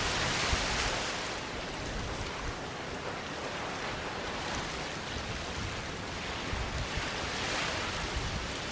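Small waves washing onto a sandy beach: one wash fades over the first second or so, and a second swells and hisses near the end.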